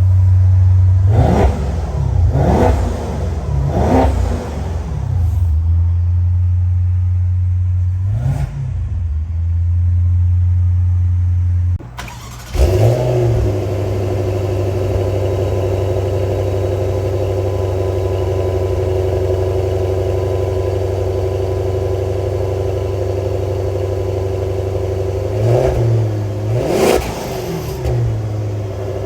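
Maserati Ghibli Trofeo's 3.8-litre twin-turbo V8 idling, with four quick throttle blips in the first third, each rising and falling in pitch. About 12 seconds in the sound changes abruptly to a steadier, busier idle, and near the end it is revved twice more.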